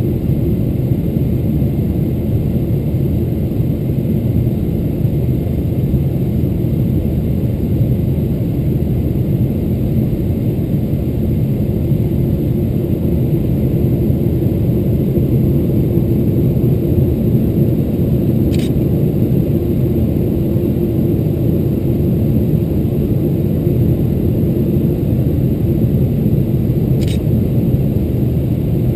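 Steady in-cabin noise of a Boeing 777-300ER on approach: the low rumble of its GE90 engines and the rush of air past the fuselage. Two faint clicks, one about two-thirds of the way through and one near the end.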